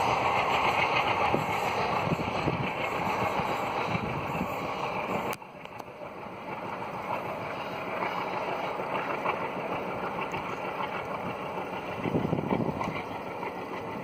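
Passenger train coaches running away along the track, a steady rolling rumble of wheels on rail. After a sudden cut about five seconds in, a quieter, steadier rumble of a train running at a distance, with a low surge near the end.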